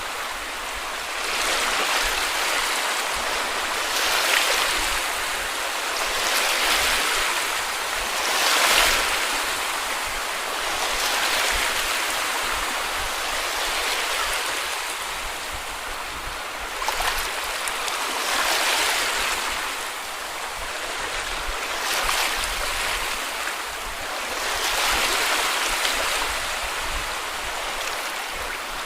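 Small sea waves breaking and washing up on a beach, a steady hiss of surf that swells with each wave every two to three seconds.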